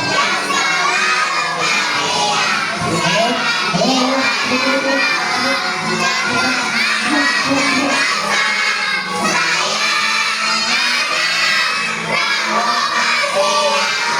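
A class of young children all talking and shouting at once, a loud, steady hubbub of many voices.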